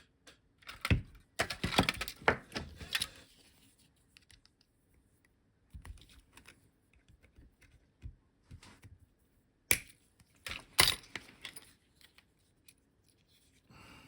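Irregular sharp clicks, taps and small rattles of small electronic parts and tools handled at a workbench, with a busy cluster about a second in and two sharp clicks around ten and eleven seconds in.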